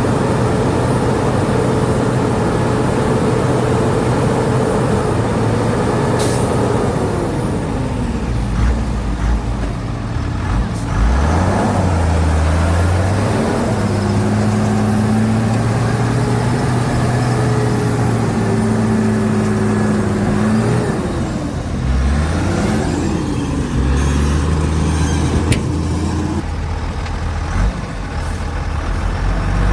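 Heavy diesel earthmoving machinery, a bulldozer and dump trucks, running steadily; the engine note drops and rises several times as the machines work. A short sharp hiss comes about six seconds in.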